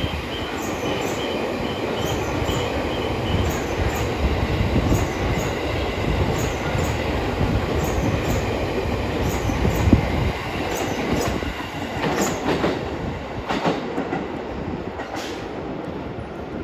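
E257 series electric train running past close by: a steady rumble of wheels on rail, with regular clacks as the wheels cross rail joints. A faint wheel squeal sounds in the first few seconds, and a cluster of sharper joint clacks comes about three-quarters of the way through.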